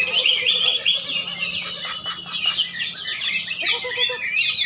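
Many caged songbirds singing at once, a dense, continuous mix of overlapping chirps, whistles and trills.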